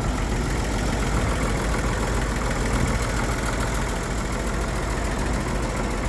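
Engine of a 1954 GMC 250 one-ton truck, a straight-six, idling steadily.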